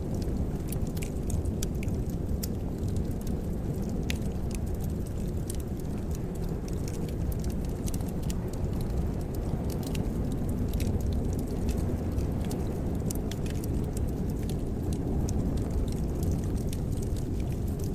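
Wood fire in a fireplace crackling: scattered sharp pops and ticks over a steady low rumble.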